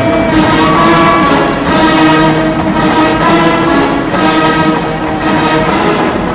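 College marching band playing: a full brass section sounding sustained chords over a steady drum beat.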